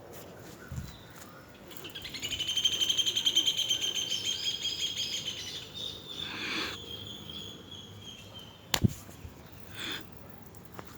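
A bird singing one rapid trill of fast repeated high notes lasting about five seconds and slowly fading, followed a couple of seconds later by a single sharp click.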